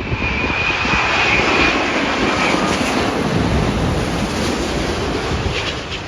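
Airliner on final approach passing low overhead: engine roar with a high whine in the first couple of seconds, loudest early on and easing away near the end, with wind gusting against the microphone.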